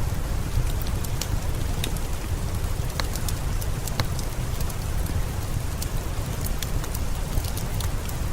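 Steady rain with a low rumble, scattered with frequent sharp crackles and pops from a wood fire.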